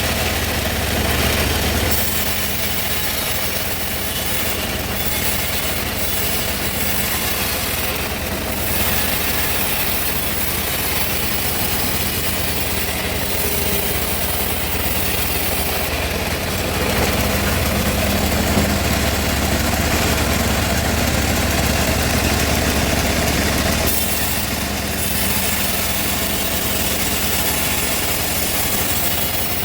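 Home-built bandsaw mill running steadily while sawing teak: a continuous low machine drone, with the higher sawing hiss swelling briefly a few times.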